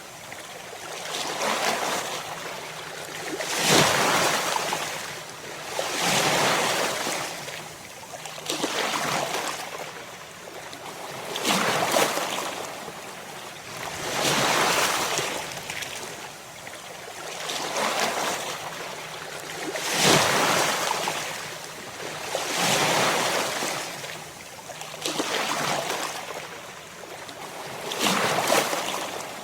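Ocean surf: waves breaking and washing in, the water noise swelling and falling away every two to three seconds.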